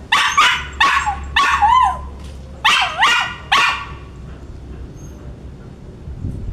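A poodle giving a quick run of about seven high-pitched barks and yips, some with a sliding whine, over the first four seconds, then falling quiet.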